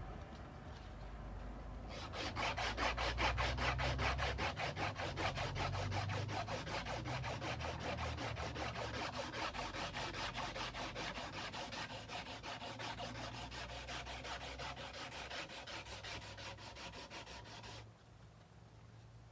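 Sandpaper rubbed by hand along a steel kukri blade in quick, even back-and-forth strokes. The strokes start about two seconds in and stop abruptly near the end.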